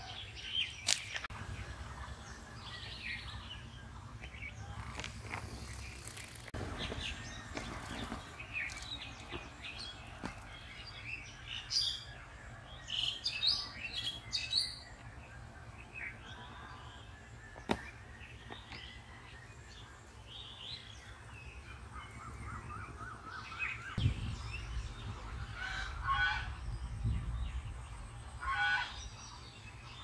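Several birds chirping and calling on and off, in short high notes and quick repeated phrases, with a few sharp clicks and a low rumble now and then.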